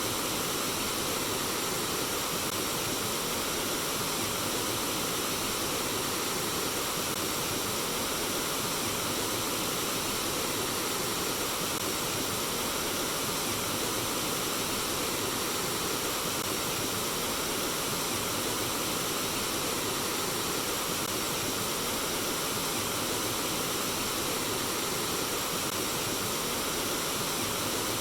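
Water flowing in a stream, a steady, even babbling rush with no breaks.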